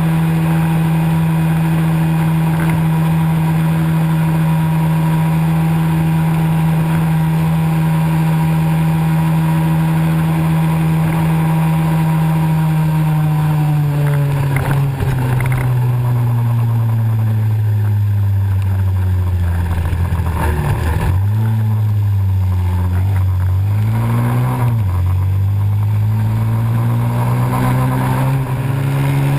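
Pit bike engine running at a steady high speed. About halfway through the throttle eases off and the revs fall, rising and dipping a few times before picking back up near the end.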